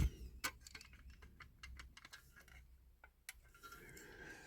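Faint, irregular light clicks and taps of small hand tools working at a diecast model car as it is taken apart, with a sharper click at the very start.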